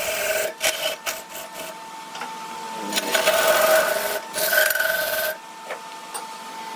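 Wood lathe running with a steady motor whine while a hand-held turning tool scrapes against the spinning wood. The cutting comes in short broken strokes at first, then a longer, louder pass from about three to five seconds in, before the tool is lifted and only the lathe's hum remains.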